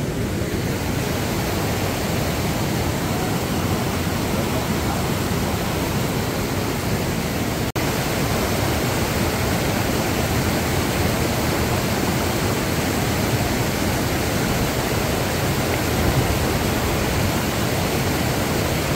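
Mountain creek rushing past in a steady, loud wash of flowing water, broken only by a momentary gap about eight seconds in.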